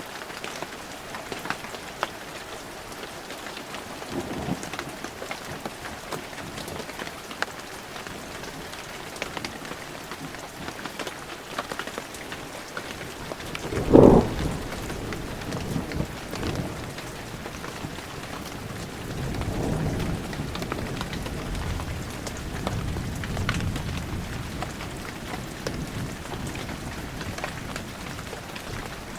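Heavy rain falling steadily, with sharp drops pattering close by. About halfway through comes a short, loud thunderclap, followed a few seconds later by low rolling thunder that swells and fades.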